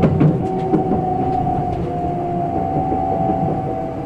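Interior running sound of a Kintetsu Ise-Shima Liner electric express train: a steady low rumble with a whine from the traction motors. A few light clicks of the wheels over rail joints.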